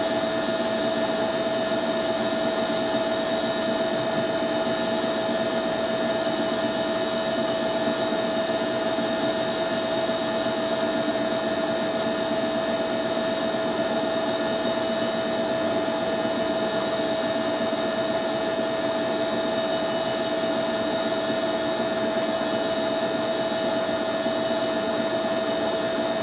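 Hoover A3060 Electronic 1100 front-loading washing machine spinning its drum at a steady speed, with a steady whine over the drum's rushing noise; the load is well balanced, so the spin is smooth.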